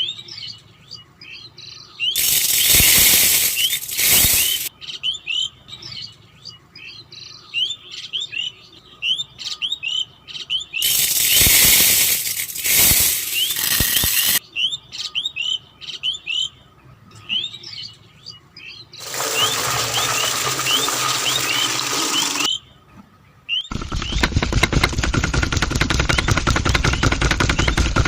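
Small birds chirping over and over with short rising calls. Three loud hissing rushes of a few seconds each break in, and near the end a loud, fast rattling machine sound starts.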